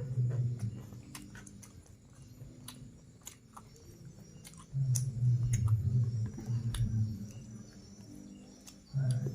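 Close-up eating: chewing chicken with sharp clicks and heavy low muffled bursts, strongest about five to seven seconds in. Faint bird chirps in the background.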